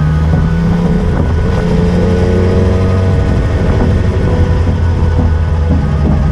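Motorcycle engine running under way, its pitch rising about a second and a half in, with wind noise on the microphone.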